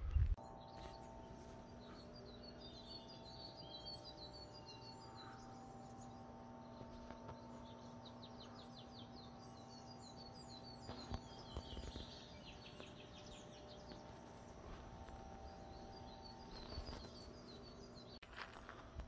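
Wild birds singing in mountain forest: repeated short high chirps with a couple of fast trills, over a faint steady hum and a few soft knocks.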